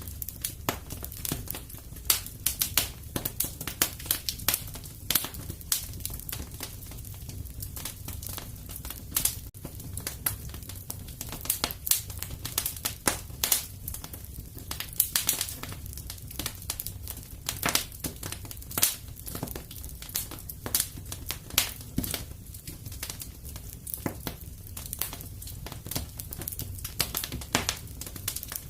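Fire crackling in a fireplace: many irregular sharp snaps and pops over a steady low hum.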